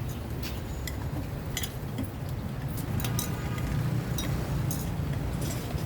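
Scattered light clinks and clicks of cups and utensils being handled while drinks are made, over a steady low rumble of road traffic.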